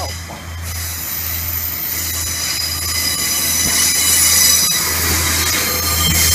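Train wheels squealing against the rails as a train runs past, several steady high-pitched tones over a low rumbling hum, getting louder toward the middle.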